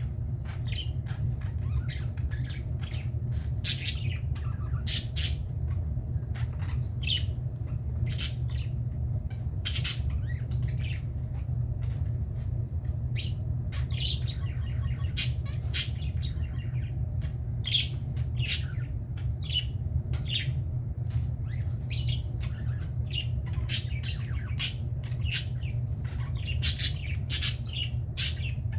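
Budgerigars calling and chattering: many short, sharp squawks and chirps in quick, irregular succession over a steady low hum.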